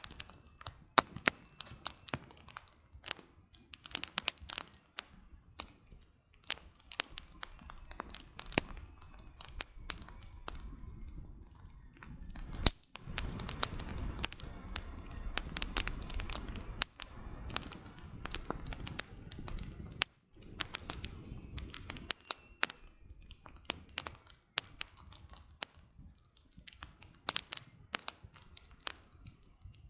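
Campfire burning, with dense irregular crackling and popping of firewood; from about 13 s to 22 s a low rushing sound of the flames rises under the crackles.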